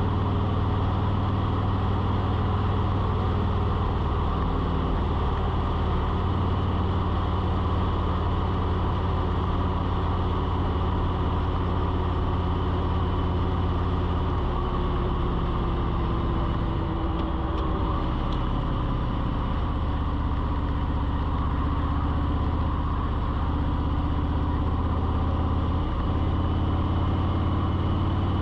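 A steady, low engine-like hum whose pitch wavers and shifts for a few seconds midway, then settles again.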